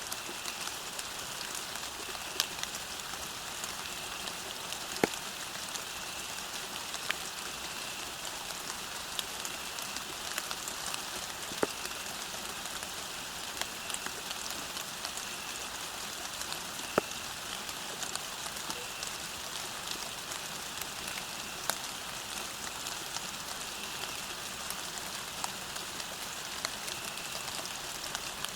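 Steady rain falling, an even hiss with scattered louder individual drop hits.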